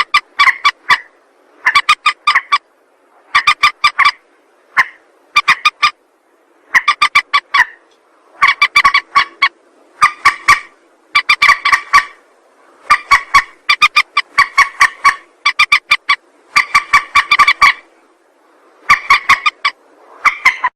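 Mandar (rail-family bird) calling, as used for a hunting lure: bursts of rapid, harsh clucking notes, each burst under a second long, repeated every one to two seconds.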